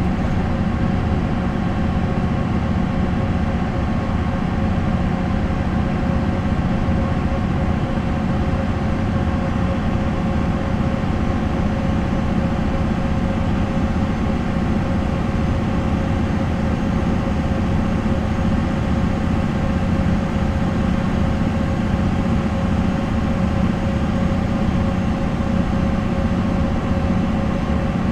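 MAN NL 263 bus with its six-cylinder D28 diesel engine running steadily, a constant low drone with an unchanging engine note throughout.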